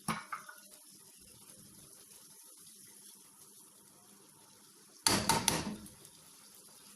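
A spoon knocking and scraping against a cooking pot while the chicken and yogurt masala are stirred: a short clatter right at the start and a longer, louder one about five seconds in.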